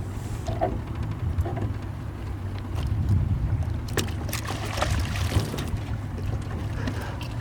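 Steady low rumble of a small boat on the water, with wind on the microphone and a few short knocks.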